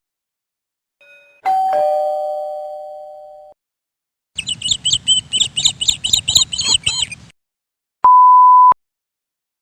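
A doorbell chimes a two-note ding-dong, high then lower, and the notes ring away. Then come about three seconds of rapid high chirping. Near the end there is one short steady beep, like a censor bleep.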